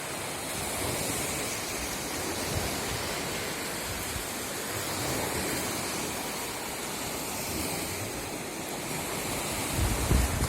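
Strong wind, a steady rushing noise; near the end gusts buffet the microphone with low rumbles.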